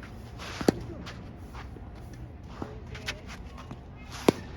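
Tennis balls being struck with rackets in a rally: two loud, sharp racket hits about three and a half seconds apart, with fainter hits or bounces and shoe scuffs between them.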